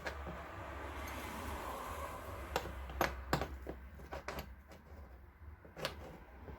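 Small hard parts being rummaged through and set down: a shuffling rustle over the first couple of seconds, then a handful of sharp clicks and clacks.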